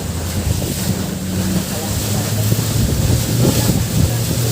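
A boat's engine running steadily, a low hum whose pitch drops slightly about two seconds in, with wind buffeting the microphone and water rushing past the hull.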